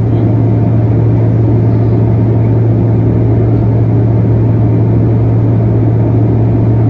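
Jet engines and airflow of a Bombardier CRJ-900, with its tail-mounted General Electric CF34 turbofans, heard inside the passenger cabin: a loud, steady noise with a strong constant low hum and no change in pitch.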